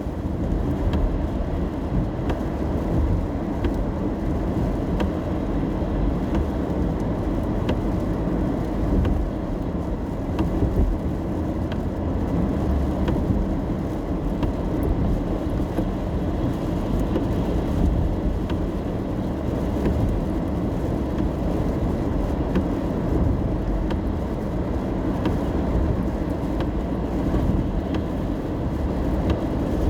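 Steady low road rumble inside a moving car's cabin while driving in the rain, with faint scattered ticks through it.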